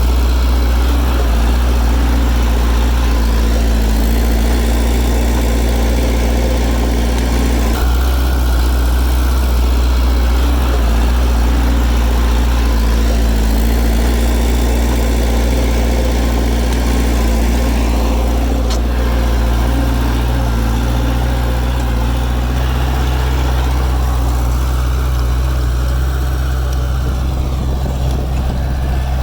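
Heavy diesel engine of an earthmoving machine running steadily at a low, even speed, with a deep drone and small shifts in its note now and then.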